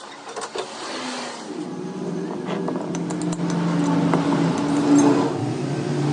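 An engine running and building up in level, its steady low drone growing stronger, with scattered sharp metallic clicks.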